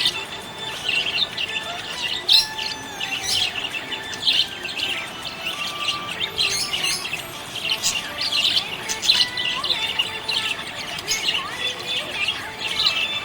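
Budgerigars chirping and chattering: many short, high chirps following one another without a break.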